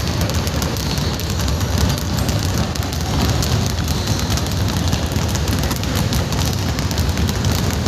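Steady rumbling noise with fine crackle, typical of wind buffeting an outdoor microphone.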